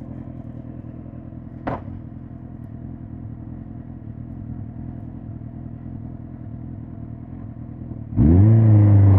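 2005 Suzuki GSX-R1000 K5's inline-four engine running steadily at low revs, with one brief sharp click or chirp a little under two seconds in. About a second before the end the throttle opens: the engine suddenly gets much louder, its pitch rising and then holding as the bike accelerates.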